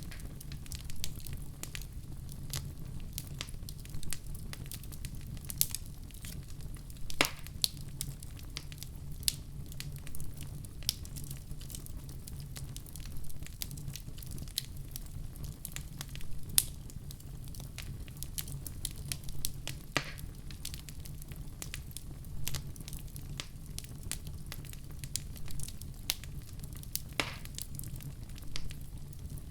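Wood fire burning in a fireplace: a steady low rumble of flames with irregular crackles and sharp pops, a few louder pops standing out.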